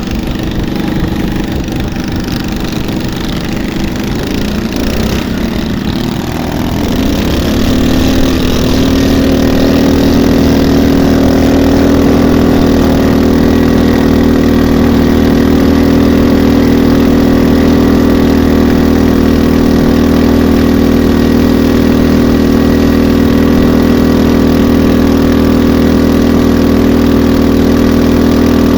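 Small fishing boat's engine running. It picks up speed between about six and eight seconds in, then holds a steady, louder pitch.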